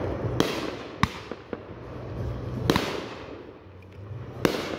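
Consumer firework cake shots bursting overhead: several sharp bangs about a second or two apart, with smaller cracks in between.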